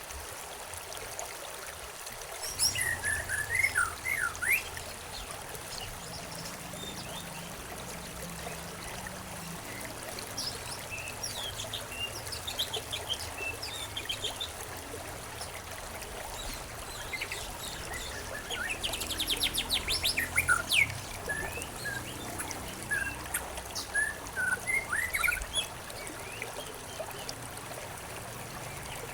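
Songbirds chirping in scattered bursts, with a fast trill about two-thirds of the way through, over a steady trickle of running water.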